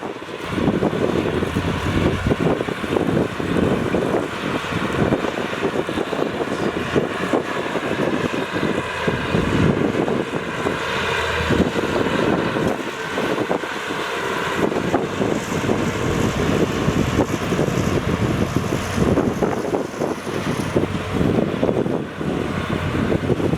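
Heavy diesel earthmoving machinery running under load, with wind buffeting the microphone.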